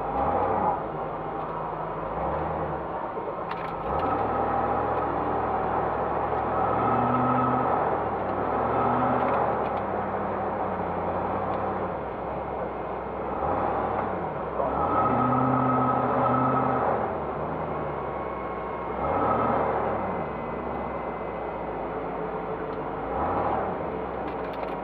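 Classic Range Rover's 3.9-litre V8 heard from inside the cabin, accelerating and backing off again and again, its pitch climbing on each surge and dropping between them.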